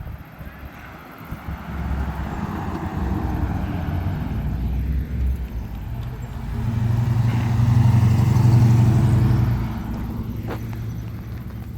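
A car engine running, growing louder to a peak about eight seconds in and then easing off, as a car drives past.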